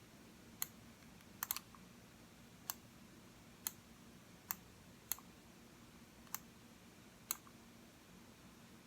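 Computer mouse buttons clicking, single clicks about once a second with a quick double click about one and a half seconds in.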